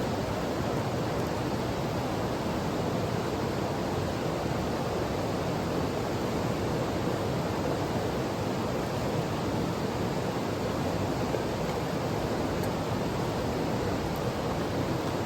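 Mountain stream rushing in a steady, even stream of water noise.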